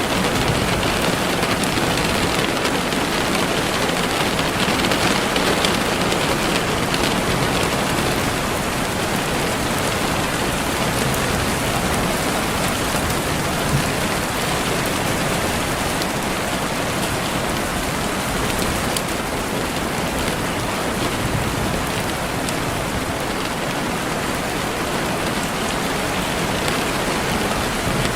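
Steady rain falling on a surface, an even hiss made up of many fine drops.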